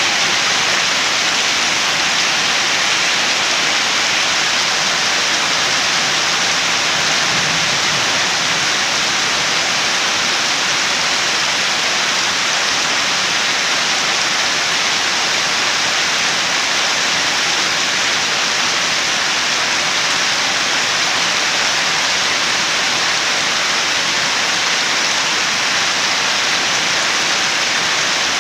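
Steady, unbroken heavy rainfall, a dense even hiss with no single drops or thunder standing out.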